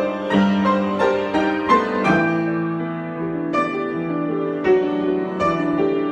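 Solo piano improvisation: chords and melody notes struck every half second or so over sustained bass notes, with the bass moving to a lower note about two seconds in and ringing on.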